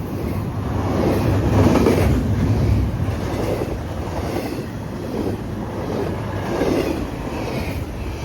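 CSX intermodal freight train I-132 passing at speed: a steady rumble and rattle of wheels on rail that swells and eases as successive cars roll by.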